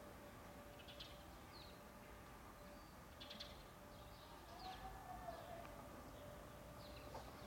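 Near-silent open-air ambience with faint, short bird chirps about once a second, over a faint steady tone.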